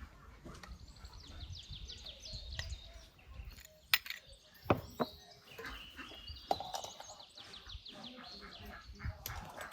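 A small bird singing rapid trills of short, falling high notes, twice, with a few sharp knocks in between.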